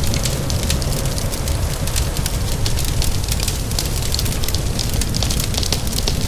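Fireplace fire crackling, with frequent sharp pops and snaps over a steady low rumble, and a rain hiss behind it.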